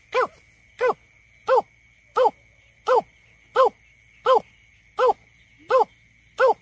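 Greater painted-snipe giving its lure call: an even series of short hooting notes, each falling in pitch, about one every 0.7 seconds.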